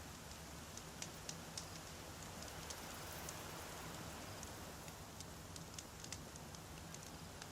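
Wood campfire burning, with irregular sharp crackles and pops of burning firewood over a soft steady hiss and low rumble.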